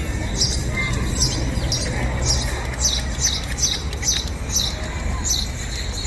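A bird chirping over and over, about two or three short high chirps a second, above the steady low rumble of city traffic around a feeding flock of feral pigeons.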